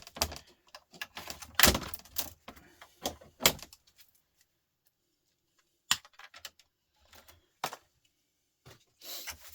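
Clattering knocks and clicks of plastic and metal parts and cable being handled during a TV teardown. They come in quick runs, then stop for about two seconds, with single knocks and a short run near the end.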